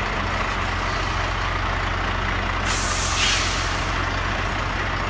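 Heavy truck's diesel engine running steadily, with a sharp hiss of compressed air from its air brakes lasting about a second, a little past the middle.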